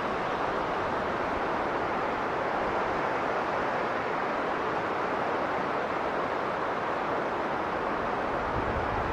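Strong blizzard wind blowing steadily as an even rushing noise, with no gusts, breaks or separate sounds.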